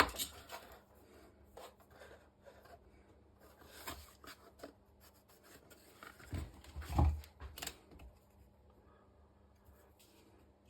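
Small handling noises at a workbench while gluing wooden model boat parts: scattered light taps and rubbing, with a few louder knocks and one dull thump about seven seconds in.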